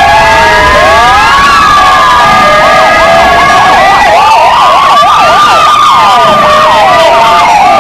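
Four electronic sirens sounding together, two police-motorcycle sirens and two Kingvox ERP units, with slow wails rising and falling over one another. A fast yelp cuts in about two and a half seconds in, and a steady tone that runs underneath stops about four seconds in.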